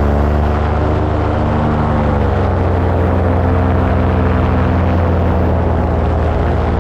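Paramotor engine and propeller running steadily in flight, the pitch sagging slightly about two seconds in.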